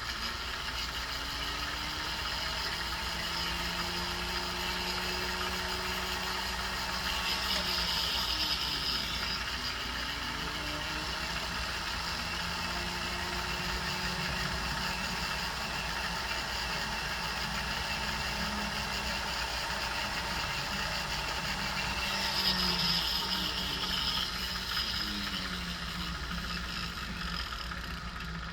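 Jeweler's torch with a size 4 tip burning steadily, a continuous hiss over a low hum whose pitch slowly wavers. It turns louder and hissier twice, about eight seconds in and again about twenty-two seconds in.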